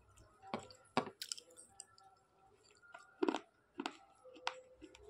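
Slate pencil being chewed with the mouth closed: about six short, sharp crunches and clicks at uneven intervals, the loudest a little past the middle.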